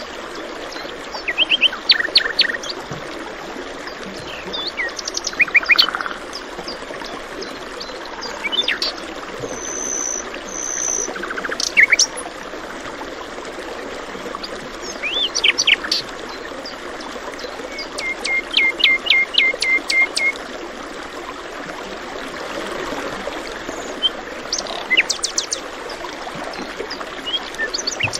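Several wild birds chirping and calling over the steady rush of running water, such as a stream. Two-thirds of the way through, one bird gives a quick run of short repeated notes.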